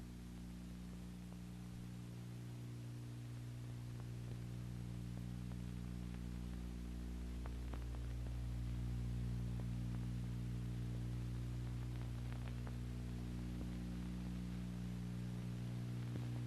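Steady low electrical hum made of a stack of even tones, with a faint hiss over it and a few faint clicks near the middle. No rotor or engine sound is heard.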